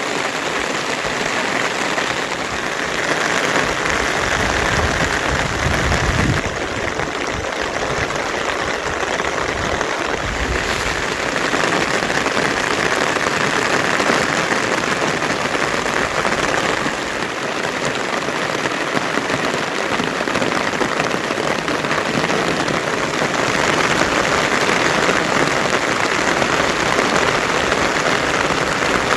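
Heavy monsoon rain falling steadily, a dense even hiss that swells a little now and then.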